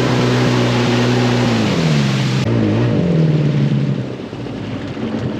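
Sea-Doo GS 720 jet ski's two-stroke engine running. Its note holds steady, then drops in pitch about two seconds in as the throttle eases, settling lower after a further dip near three seconds.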